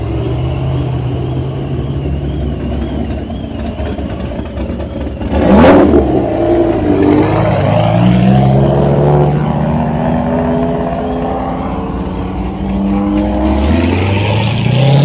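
Car engines revving and accelerating. A loud sudden rev comes about five and a half seconds in, the loudest moment, followed by engine pitch climbing as cars pull away, and another rising rev near the end.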